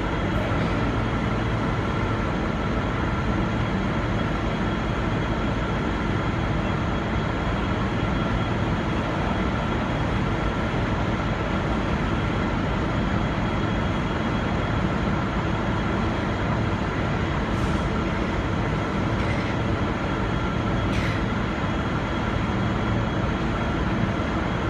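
V/Line N-class diesel-electric train running steadily as it departs: a constant rumble with a faint steady whine above it.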